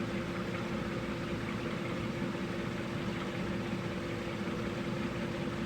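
Steady mechanical hum with one constant mid-pitched tone over an even noise.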